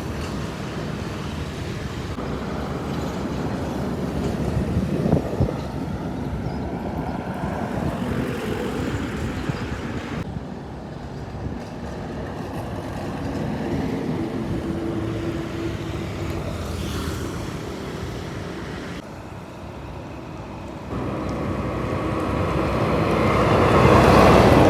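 Heavy trucks driving by: steady diesel engine and road noise, broken by a few sudden cuts between clips. It swells to its loudest near the end as a truck passes close.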